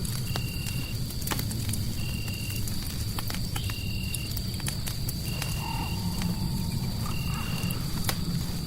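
Crackling fireplace, sharp pops over a steady low rumble of fire and white noise. Layered over it are a steady high whine and a short high call that repeats about every second and a half, five times, in the manner of a frog or insect in a night ambience.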